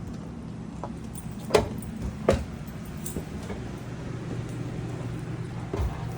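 Steady low mechanical hum, with two sharp knocks about a second and a half and a little over two seconds in, and a couple of fainter ones.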